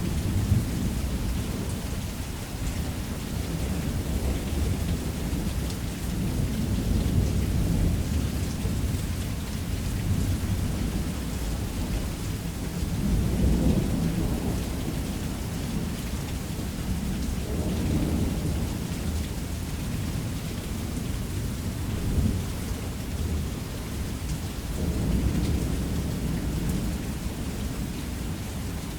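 Heavy rain falling steadily on a roof, with thunder rolling and rumbling in several low swells.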